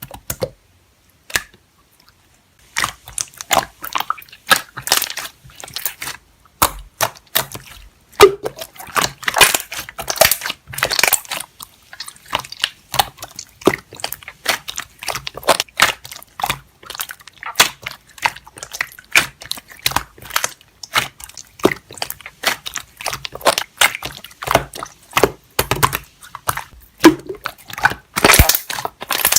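Slime being squished and pressed by hand, giving a dense run of sticky pops and crackles that starts about two and a half seconds in.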